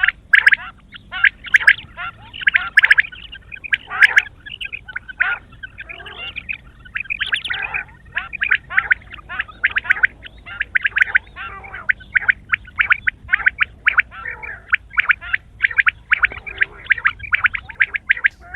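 Quail calling in a fast, chattering run of short notes, several a second, carrying on with only brief pauses.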